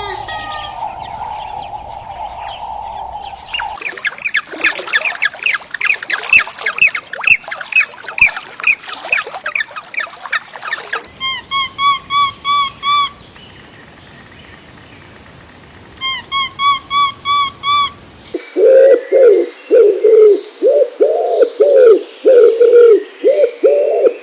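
A string of different bird calls one after another: a fast run of dense chirping, then two short bursts of repeated chirps, then a longer series of lower repeated calls near the end.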